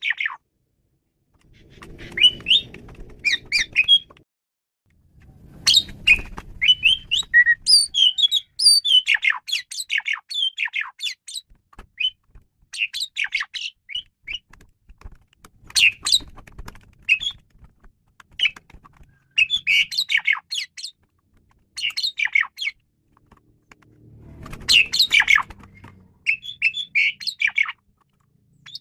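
Male pied starling (jalak suren) singing a varied song: phrases of quick chattering and whistled notes with short pauses between them. A low rumble runs under three of the phrases.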